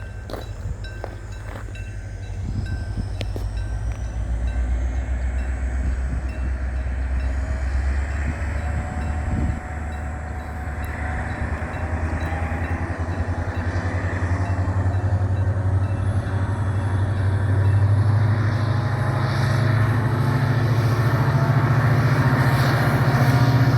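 Train running, a low rumble with a noisy haze that grows steadily louder.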